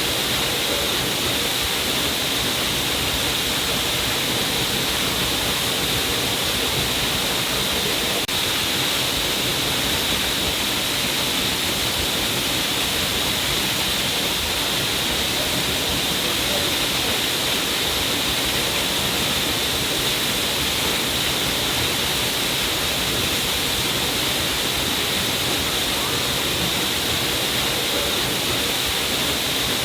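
Small waterfall: a stream of water pouring down a rock face and splashing, a steady rushing hiss that does not change.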